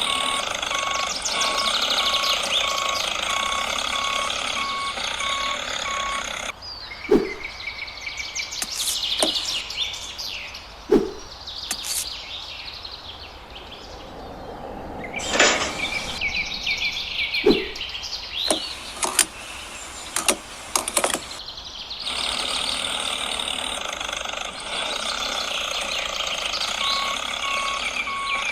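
Many birds chirping, with an evenly repeating electronic beep like a reversing alarm at the start and again near the end. In between, the beeping stops and a few short low thumps come through the chirping.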